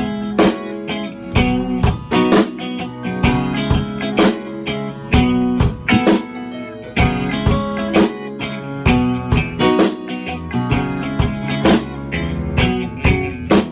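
A live band playing an instrumental passage with no vocals: guitar chords over a steady beat, about two strokes a second.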